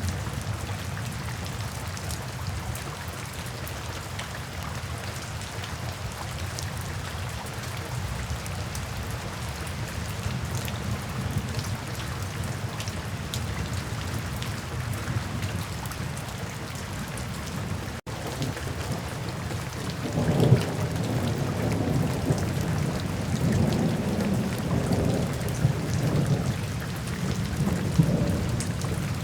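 Steady rain falling, with fine scattered drop ticks. About two-thirds of the way in, a long, low rolling rumble of thunder sets in and keeps rolling almost to the end.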